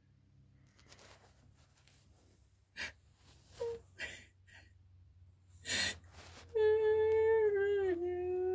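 A few soft clicks and short breaths, then about six and a half seconds in a high voice holds one long drawn-out note that steps down in pitch about a second later and carries on.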